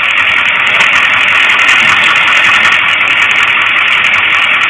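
Steady roadside vehicle noise at a traffic stop: running engines under an even, loud hiss.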